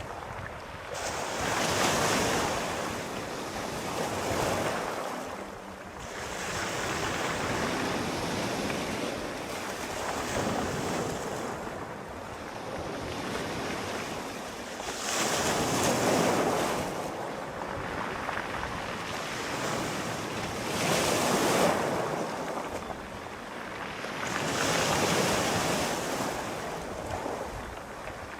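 Sea waves breaking and washing in, a steady surf noise that swells and fades in slow surges every few seconds.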